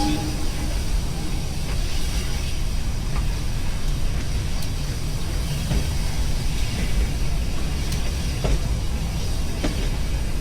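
A train running on rails: a steady low rumble with scattered clicks and knocks from the wheels over the track.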